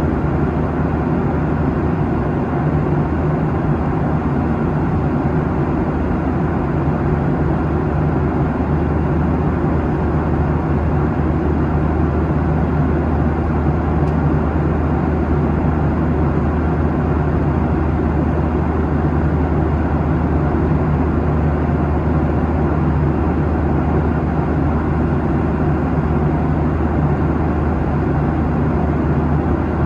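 Steady cabin noise of a Boeing 737-800 in cruise: a constant drone of airflow and jet engines, with a low hum running underneath.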